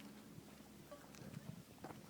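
Near silence: faint background with a few soft ticks.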